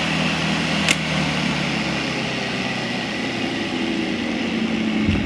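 Electric motor and blade of a homemade battery-powered lawn mower, a Craftsman V60 motor hardwired to batteries, running steadily at full speed. A single sharp tick about a second in.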